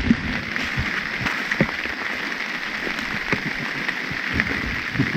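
Steady rain falling, with irregular heavy drops tapping close by.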